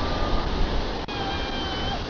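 Steady roar of a large waterfall, Chitrakoot Falls on the Indravati River, a dense rush of falling water. About halfway through a short steady held tone sounds over it.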